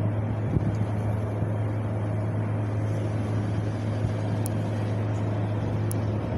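Steady wind noise with a constant low hum underneath and a couple of faint ticks.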